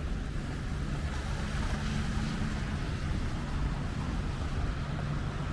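City traffic on a wet, slushy street: a steady low rumble of engines with tyre hiss. A vehicle passes about two seconds in.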